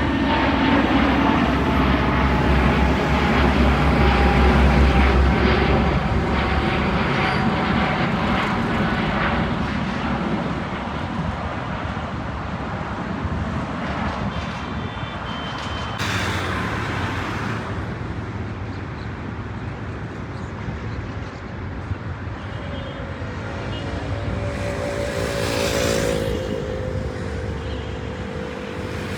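Jet airliner engines passing close by: the sound peaks about five seconds in, its tone falling slowly, then fades away. Near the end a new engine whine with several pitches comes in, rising a little.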